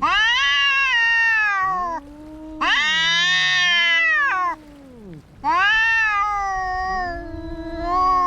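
Two domestic cats yowling at each other in a fight: three long, drawn-out caterwauls that rise and then fall in pitch, overlapped by a lower, moaning growl from the other cat.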